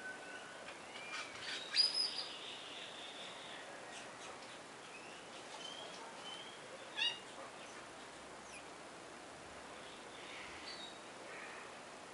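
Wild birds calling: scattered short chirps and brief calls with a rich, layered pitch. The loudest come about two seconds in and again about seven seconds in, with fainter calls near the end.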